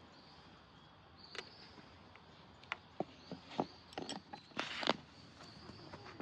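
Light handling sounds: a scatter of short clicks and knocks and a brief rustle near the end, over a faint outdoor background with a thin high tone.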